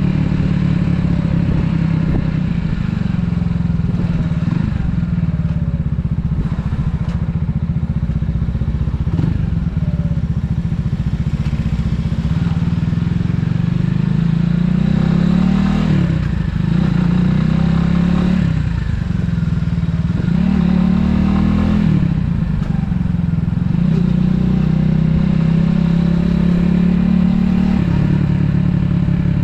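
Italika 250Z motorcycle's single-cylinder engine running under way. Several times in the middle of the stretch its pitch climbs and then drops back as the rider accelerates and changes gear.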